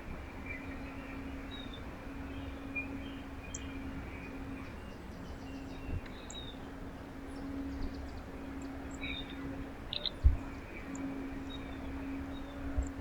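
Small birds giving short, scattered chirps over a steady low hum and rumble. A single sharp knock about ten seconds in is the loudest sound.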